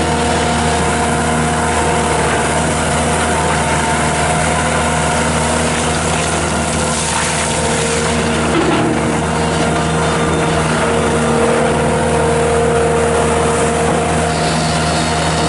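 Bobcat S650 skid steer's Kubota V3307 diesel engine running steadily at a constant speed.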